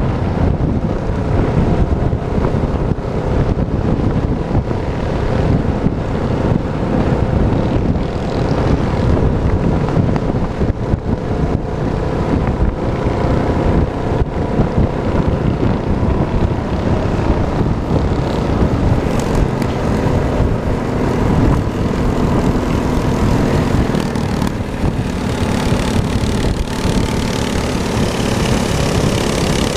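Small minibike engine running steadily under way.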